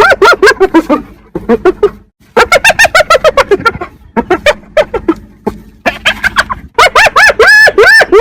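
Spotted hyena giggling: rapid runs of short, high yelping notes that rise and fall in pitch, in several bouts broken by brief pauses.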